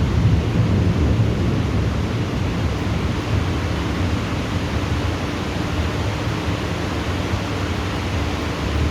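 Thunderstorm: a steady rush of rain with a deep rumble underneath, a little louder in the first second.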